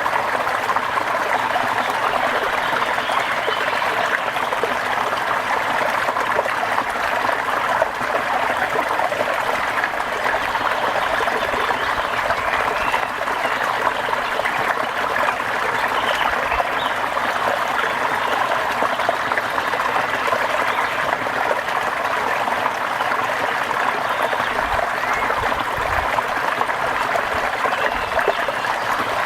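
Steady rain falling: a dense, even hiss of water that does not let up.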